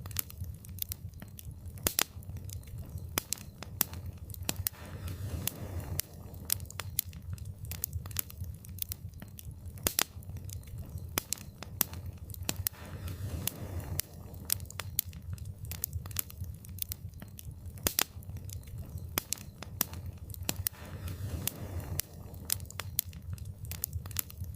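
Wood fire crackling: frequent sharp pops and snaps at irregular intervals over a low, steady rumble of burning.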